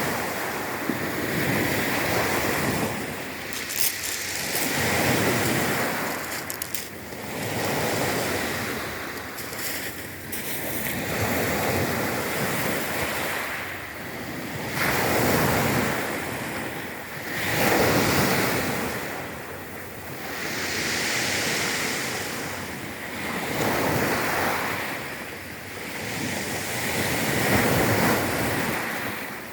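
Sea waves washing onto the shore, the surf swelling and falling back every two to three seconds.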